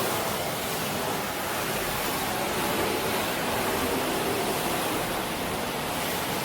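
Philips Series 3000 Performer Compact 900 W bagged vacuum cleaner running steadily: an even rush of air through the machine, with no change in pitch or level.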